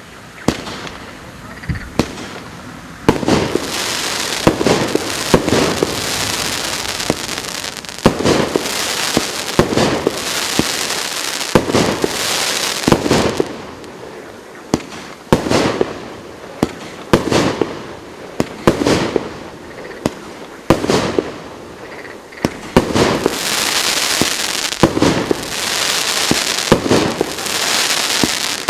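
GP511 "BLING" consumer firework battery firing its 1.2-inch shots one after another, about one every second or so. Each shot is a sharp bang followed by a hissing spread of burst noise.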